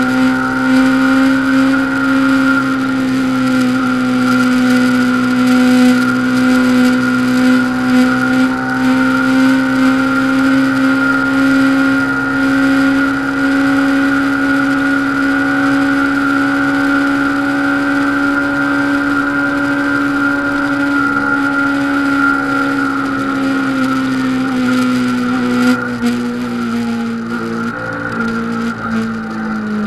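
Honda CBR500R's parallel-twin engine running at high revs during a top-speed run. The pitch holds nearly constant, then eases down slightly in the last few seconds.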